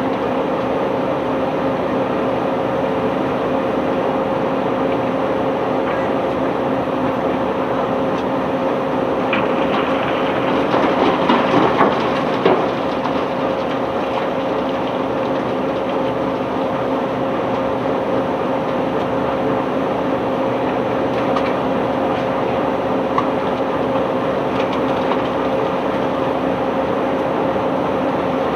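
Heavy unloading machinery on a cargo barge running steadily with a constant hum. A louder stretch of rough clattering comes about ten to thirteen seconds in.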